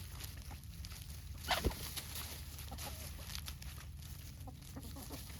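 Free-range chickens clucking softly here and there, with one louder, sharper call falling in pitch about a second and a half in, over a steady low rumble.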